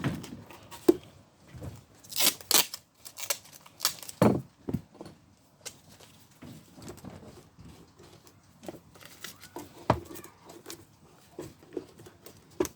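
Small objects and tools being rummaged through and handled on a workbench: irregular clicks, knocks and rustling, busiest about two seconds in, with single knocks about four and ten seconds in.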